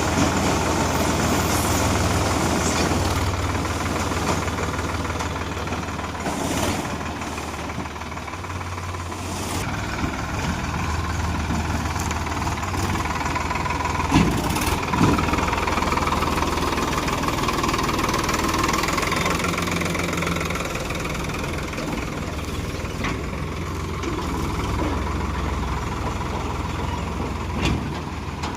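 Heavy diesel engine running steadily at a low, even speed, with a couple of sharp knocks about halfway through.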